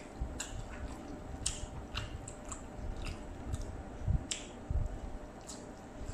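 Close-up eating sounds: chewing and wet mouth noises as fried rice vermicelli is eaten by hand, with scattered small clicks and two dull low thumps about four and five seconds in.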